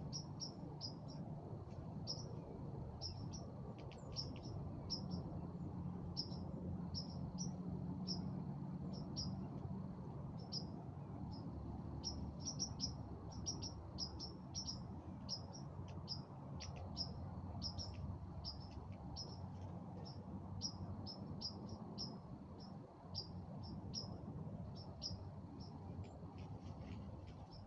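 Small birds chirping: short, high chirps, a few every second and some sweeping downward, over a steady low rumble.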